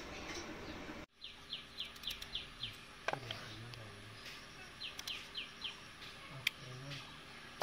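A bird calling in two runs of short, quick, falling chirps, about three a second, with a few faint clicks in between.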